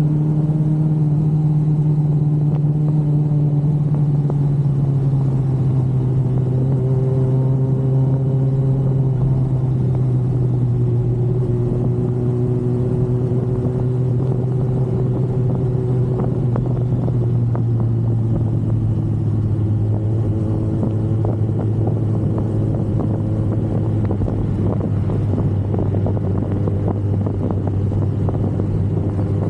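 Yamaha R1's inline-four engine running at a steady cruise, its drone sinking slowly in pitch as the revs ease off.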